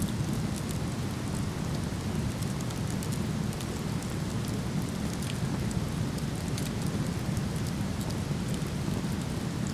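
Waterfall rushing steadily, with a campfire crackling in frequent small, sharp snaps over it.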